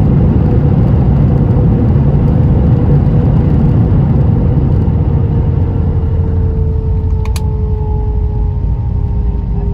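Airbus A320 cabin noise on the ground after landing: a steady low rumble with an engine whine that slowly falls in pitch from about halfway through, as the engines spool down. A brief click is heard about seven seconds in.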